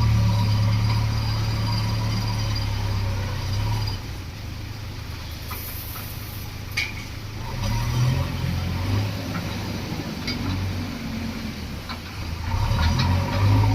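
Heavy diesel engine of a backhoe loader running, its revs rising and falling as it works, louder near the start and again near the end. A few sharp metallic clanks are heard.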